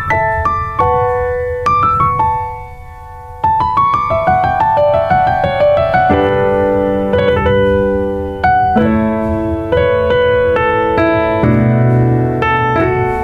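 Background piano music: single notes and rising runs, then fuller chords, with a short pause about two and a half seconds in.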